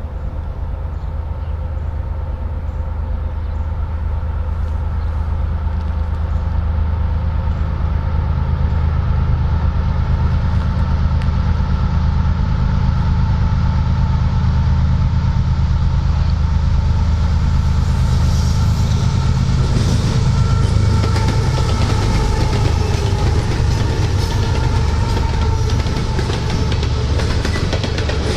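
CSX freight train's diesel locomotives approaching, their engine drone growing steadily louder. From about eighteen seconds in the train is passing close by and the steel wheels clatter over the rails in quick clicks.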